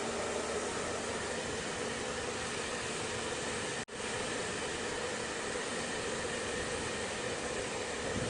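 Hair dryer running steadily, a constant rush of blown air with a low motor hum; the sound cuts out for an instant about four seconds in, then resumes.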